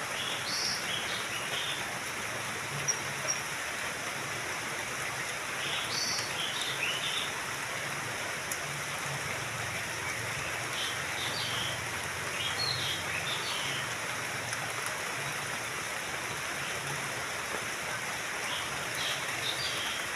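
Small birds chirping in short clusters of quick high notes, several times, over a steady rush of running water.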